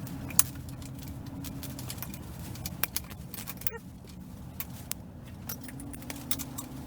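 Hand tools working the 10 mm cylinder head bolts on a quad's single-cylinder engine: scattered sharp metal clicks and clinks, over a steady low hum.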